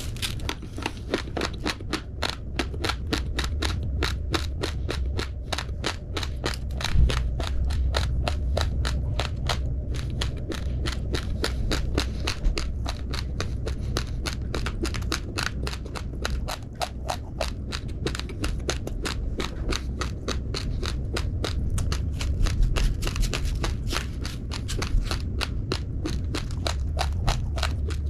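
Raw, uncooked rice grains being crunched between the teeth: fast, continuous crisp cracking, several crunches a second, with a low rumble underneath.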